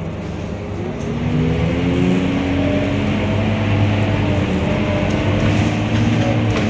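Scania K230UB single-deck bus engine pulling away and accelerating: its note rises in pitch and grows louder from about a second in, then holds steady.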